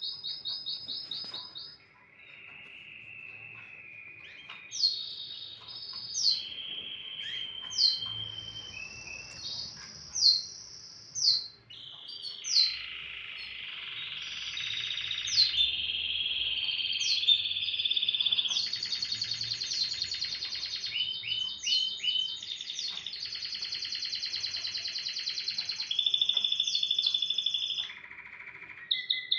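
Domestic canary singing a long continuous song of rapid trills and rolled phrases, broken by sharp sweeping notes.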